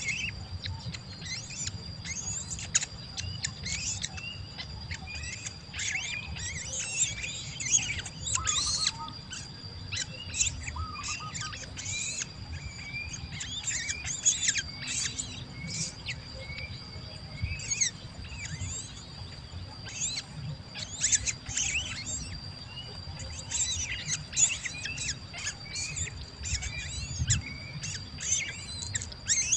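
Baby birds chirping over and over: short, high calls in quick succession with no real pause, over a steady high whine and a low rumble.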